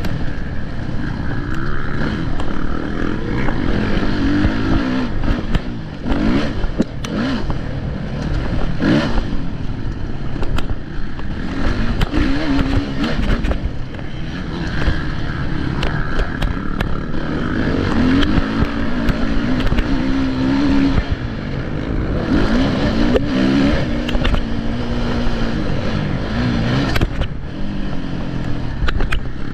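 Motocross bike engine revving up and down over and over as it races, its pitch climbing and dropping every few seconds, with occasional sharp knocks.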